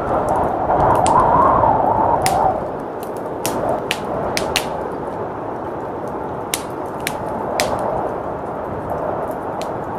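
Fireplace crackling, with sharp wood pops at irregular intervals over a steady howl of blizzard wind. The wind swells in a gust during the first two seconds or so.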